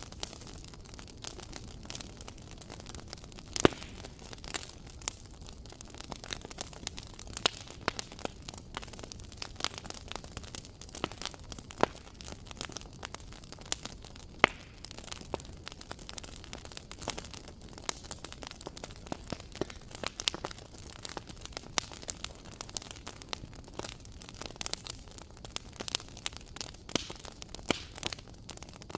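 Wood fire crackling in a fireplace: irregular pops and snaps over a low, steady hiss, with the two sharpest pops a few seconds in and about halfway through.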